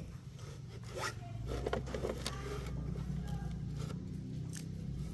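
A motor running with a steady low hum, with scattered clicks and scrapes over it.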